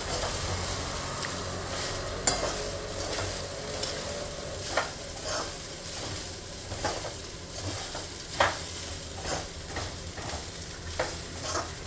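A spatula stirring soaked flattened rice (aval) in a kadai, scraping and knocking against the pan every second or two over a low sizzle as the upma fries.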